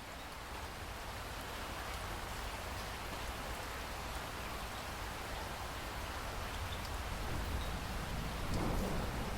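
Steady rain falling, a dense even hiss of drops, swelling up over the first couple of seconds and then holding steady.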